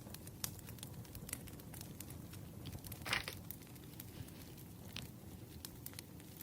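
Paper and stationery being handled on a desk: scattered light clicks and taps, with one brief rustle of paper about three seconds in.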